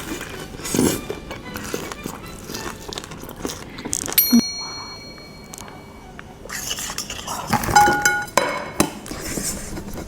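Tableware clinking and knocking, with plates, glass and cutlery being handled. Two clinks ring out clearly, one about four seconds in and another near eight seconds.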